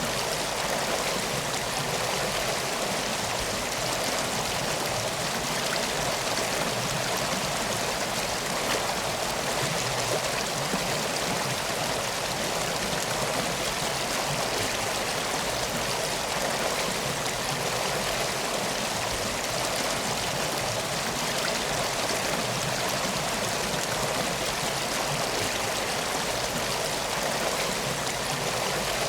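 Steady rushing of a flowing river or stream, an even wash of water noise.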